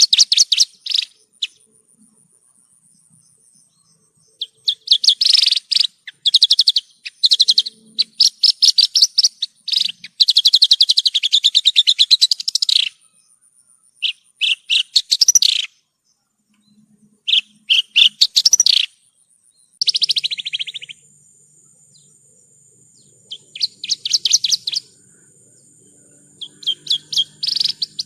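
Javan bush lark (branjangan) singing: a series of short song phrases, each a fast run of repeated high chirping notes, separated by pauses of one to three seconds. A faint steady high thin tone runs behind the song.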